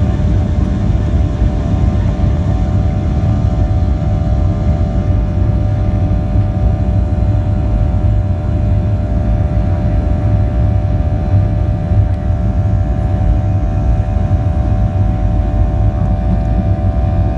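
Southwest Boeing 737 jet engines running steadily during takeoff: a loud, even low rumble with a constant hum over it, not rising or falling in pitch.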